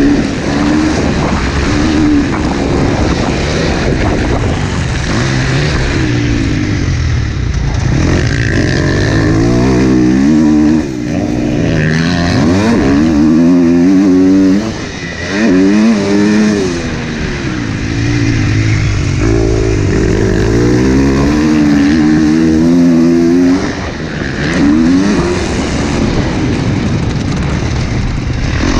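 Motocross dirt bike engine on the track, revving up and falling back over and over as the rider works the throttle and gears, with a few brief drops off the throttle.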